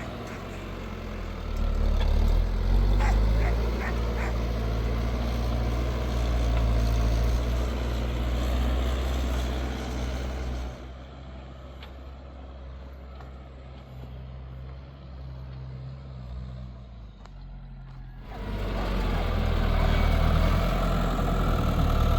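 New Holland TL100 tractor's diesel engine running steadily during ploughing, a low drone. About halfway through it turns quieter and muffled for several seconds, then comes back up near the end.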